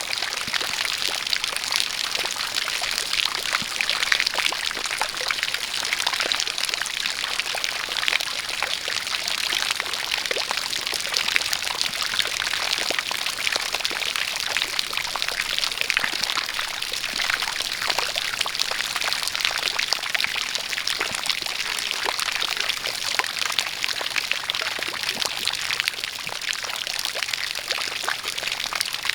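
A steady jet of water pouring and splashing, with rain falling, a dense, even hiss of fine spatters.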